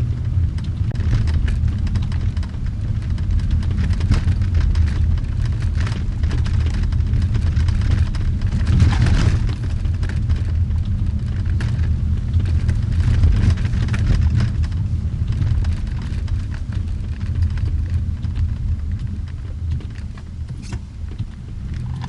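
Car driving, heard from inside the cabin: a steady low rumble of engine and tyres, with a brief louder swell about nine seconds in.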